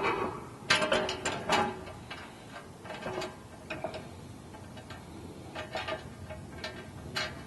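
Ratchet wrench clicking in short bursts as nuts are run down onto the carriage bolts holding a muffler skid plate to its bracket, with a few metal ticks between the bursts.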